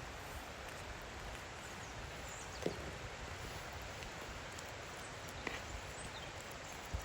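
Steady outdoor background hiss with three light, sharp clicks or knocks spread through it, the first about a third of the way in and the last at the very end.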